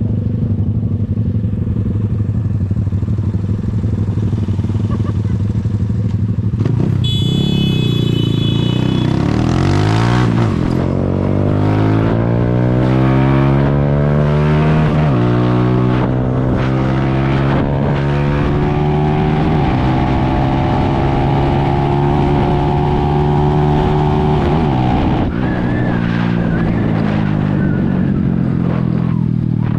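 Zanella Sapucai 200 motorcycle's single-cylinder engine running low and steady, then accelerating from about seven seconds in, its pitch climbing through two upshifts to a steady cruise before easing off near the end. A brief high-pitched tone sounds as it pulls away.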